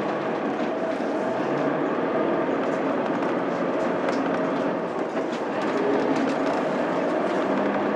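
Mitsubishi Fuso Aerostar city bus under way, heard from inside the cabin: steady drone of its 6M70 straight-six diesel with road noise, the engine note shifting in pitch. Light rattles come from the cabin in the middle.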